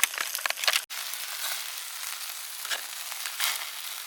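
Food frying in a hot pan: sharp spattering crackles, then after a brief dropout about a second in a steady sizzle with occasional pops.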